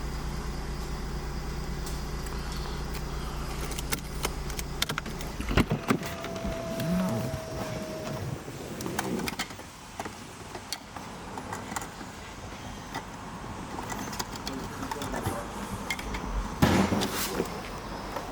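Mercedes-Benz E350's engine idling steadily, then switched off about five seconds in. Clicks and handling noises follow, with a short whine about a second later that fits a power window. A car door shuts with a loud thud near the end.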